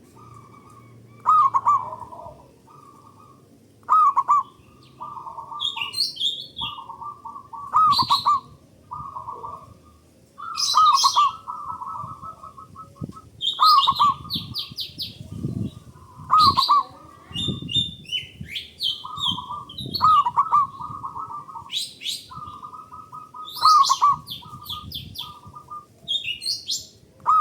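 Zebra dove (perkutut) cooing its song over and over, a phrase about every two seconds: a swooping coo followed by a quick run of short staccato notes. Higher-pitched chirps come in between the phrases.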